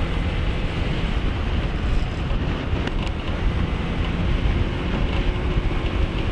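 Wind rushing over the microphone while riding a Honda ADV 160 scooter, with the steady hum of its single-cylinder engine underneath.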